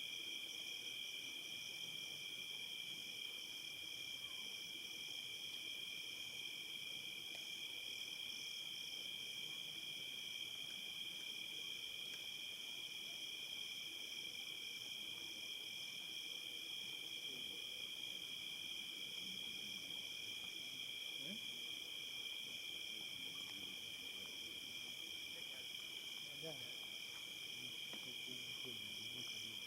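Steady evening insect chorus of crickets, a continuous high trilling that holds unchanged throughout, with faint scattered low sounds beneath it.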